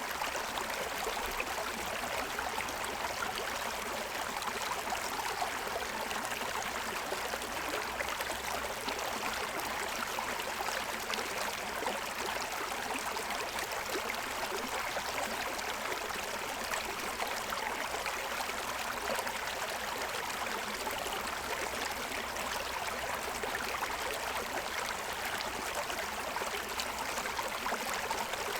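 Forest stream running steadily over the stones of its bed: a constant rushing and splashing of water that never lets up.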